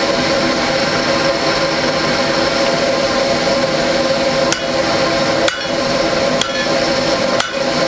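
Electric forge blower running with a steady whine. About halfway through come four hammer blows on metal, roughly a second apart, each ringing briefly.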